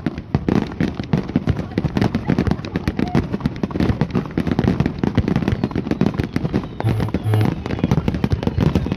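A fireworks barrage: a dense, continuous run of rapid bangs and crackles, many each second.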